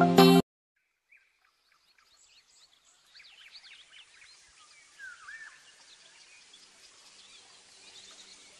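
Background music cuts off about half a second in. After a near-silent gap, faint chirps and short calls of several small birds come in over a faint steady hiss.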